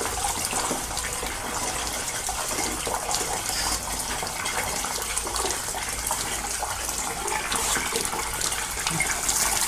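Water running steadily from a washout wand spraying inside the sections of a new cast iron steam boiler, flushing out factory oil and black dirt.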